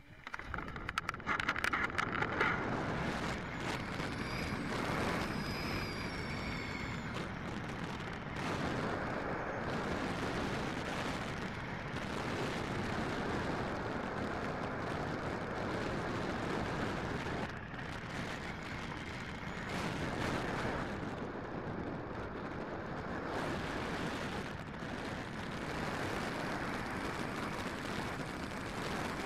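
Model airplane engine running steadily under a rough, rushing noise, with a pitched whine that briefly glides up and down a few seconds in.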